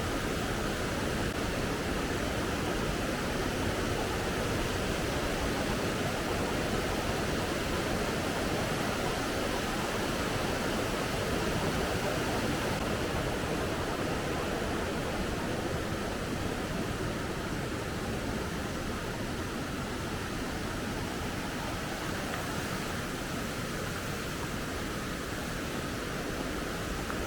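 Fast-flowing mountain river water rushing steadily, a constant even noise that eases slightly past the middle.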